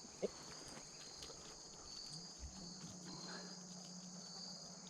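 Crickets chirring steadily in a high, faintly pulsing chorus, with a couple of faint knocks at the start and a faint low hum coming in about two seconds in.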